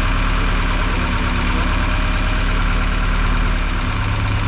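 Freshly reinstalled Honda K24 four-cylinder engine in an Acura RSX race car idling steadily on its first startup, with a slight change in its note near the end.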